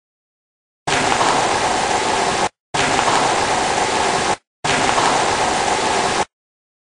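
Three bursts of steady static-like hiss, each about a second and a half long, separated by brief gaps of dead silence and starting and stopping abruptly like spliced-in clips.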